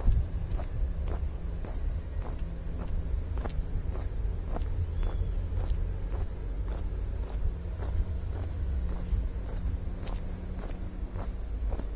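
Footsteps at an even walking pace, about two a second, over a steady high-pitched chorus of insects and a low rumble.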